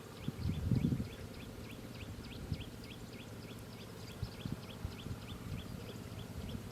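A bird chirping steadily, a rapid run of short, high, falling notes at about four a second, with low rumbling thumps about half a second to a second in.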